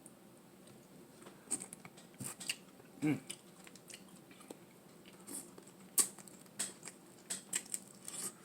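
Close-miked eating sounds: scattered wet mouth smacks, clicks and chewing of saucy crab, with a short voiced 'mm' about three seconds in.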